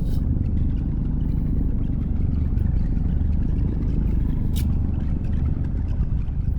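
A steady low rumble, with faint light scrapes and a short click about four and a half seconds in.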